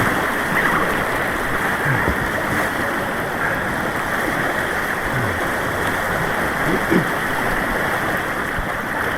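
Steady rushing white water on an artificial white-water course.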